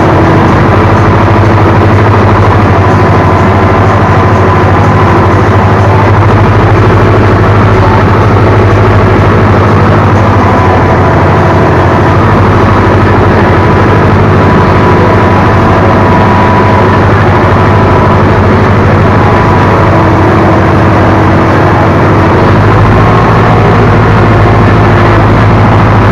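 Ursus C-360 tractor's four-cylinder diesel engine running steadily under load while ploughing, heard loud from the operator's seat.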